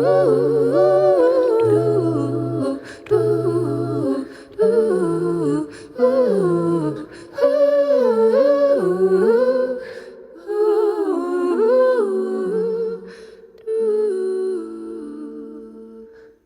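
Wordless a cappella vocal music: several layered voices humming in harmony, with sliding, wavering melodic lines. A low held note sounds under the first few seconds, and the texture thins to sustained notes that fade near the end.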